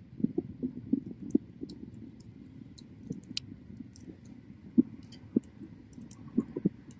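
Wood bonfire crackling: irregular sharp pops and snaps, a quick run of them in the first second or so, then scattered single pops over a low steady hiss of the flames.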